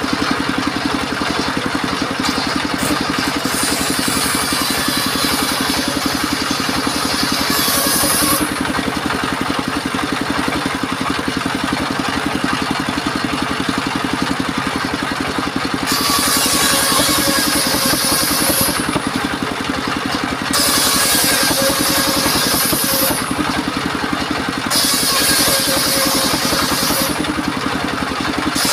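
Portable circular sawmill running steadily, its engine droning throughout, with a brighter hissing whine that comes in and drops out several times as the blade cuts through timber.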